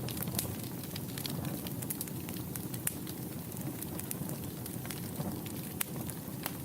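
Wood fire burning in a fireplace: a steady low rush of flames under irregular sharp crackles and pops, a few louder snaps among them.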